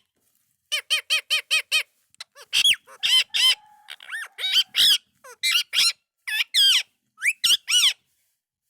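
Indian ringneck parakeet calling: a quick run of about six short chirps, then a series of louder harsh squawks rising and falling in pitch, stopping about eight seconds in.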